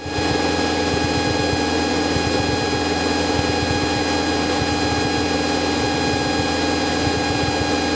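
Cessna 172's engine and propeller droning steadily in cruise flight, as heard in the cabin, with several steady whining tones over the drone.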